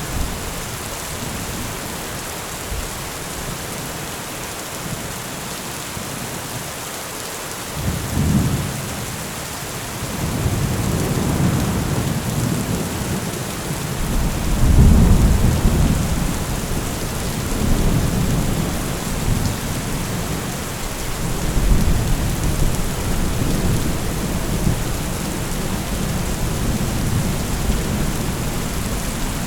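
Steady rain with rolling thunder: a first short rumble about eight seconds in, then longer, deep rumbles, the loudest about halfway through, with more rolling after it.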